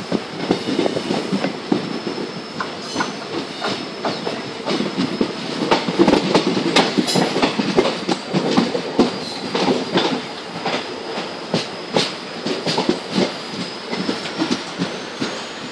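Passenger coach of the Mandovi Express running along the track, heard at an open coach door: wheels clattering over rail joints with many irregular sharp knocks over a steady rumble. A thin, steady high tone runs under it and rises slightly near the end.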